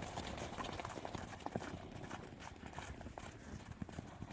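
Hoofbeats of horses moving about close by: a scatter of irregular soft thuds.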